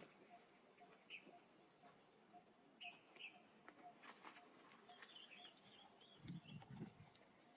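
Faint outdoor ambience with scattered short, high animal chirps, a few light clicks and a soft regular pulse about twice a second, with brief rustling near the end.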